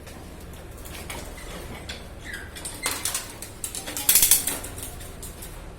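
Clinking and scraping of hard objects being handled, like plumbing tools and fittings knocking together. The loudest cluster of clinks comes about four seconds in, over a steady low hum.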